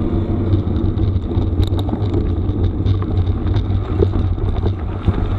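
Mountain bike rolling over a rough gravel forest road: a steady low rumble of wind on the microphone and tyre noise, with scattered short ticks and knocks from stones and the bike.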